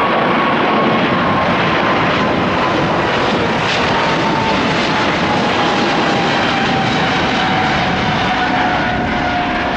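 Boeing 777 jet engines at takeoff power as the airliner departs: a loud, steady rush of engine noise with a whine that slowly falls in pitch.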